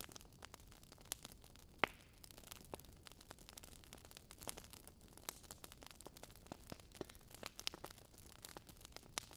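Campfire crackling: irregular sharp pops and snaps of burning wood over a faint hiss, with one louder pop about two seconds in.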